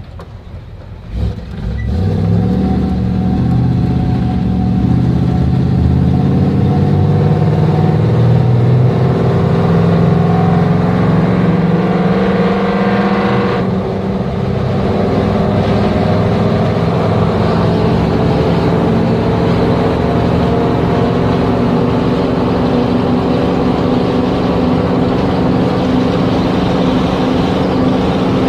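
1975 Ford Bronco engine heard from inside the cab, opening up about a second and a half in and pulling hard, its pitch climbing steadily as the truck accelerates. About halfway through the pitch drops suddenly at a gear change, then the engine pulls on and settles into a steady run at highway speed.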